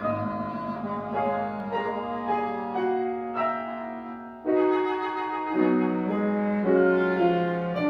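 Woodwind quintet playing live classical music: several instruments holding overlapping sustained notes that move in step, with a sudden louder ensemble entry about four and a half seconds in.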